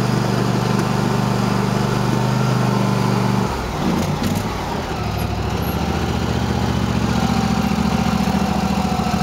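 Cub Cadet lawn tractor's twin-cylinder engine running steadily, freshly fitted with new spark coils and plugs. About three and a half seconds in, its note dips and wavers with a couple of clicks, then it settles back to a steady run at a slightly different pitch.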